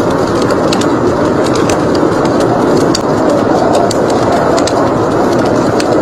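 Steady rushing blizzard wind mixed with the scattered sharp pops and crackles of a wood fire in a fireplace, about two pops a second.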